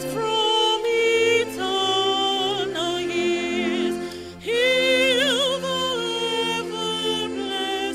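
A woman singing a slow song solo, holding long notes with a wavering vibrato over a steady sustained backing accompaniment; the voice drops away briefly about halfway through, then comes back on a strong held note.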